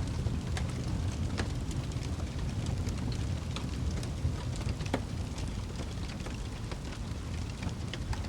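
Wood fire burning in a fireplace: a steady low rumble of the flames with scattered crackles and pops, one sharper pop about five seconds in.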